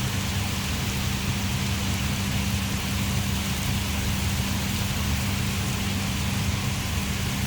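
Heavy rain pouring down steadily, a continuous hiss of rain on surfaces, with a steady low hum underneath.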